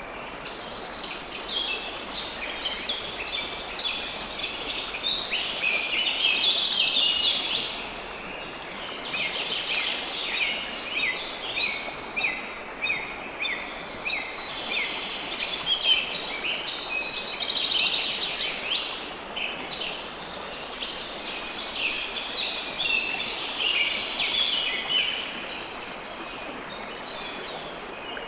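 River water flowing steadily under a busy chorus of small birds chirping. The bird calls come in three long waves and ease off near the end.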